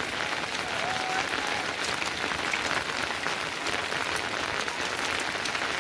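Heavy rain falling steadily: a dense, even hiss of countless drops pattering.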